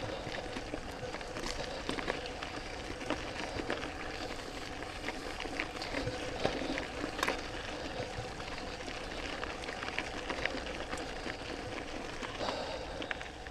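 Mountain bike rolling over a dirt trail: steady tyre noise with frequent small clicks and rattles from the bike.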